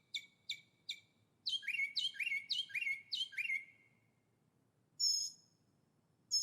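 Songbirds singing. First comes a quick run of short repeated chirps, about three a second. A phrase of five slurred notes that drop in pitch follows, then after a pause a single short, high call about five seconds in.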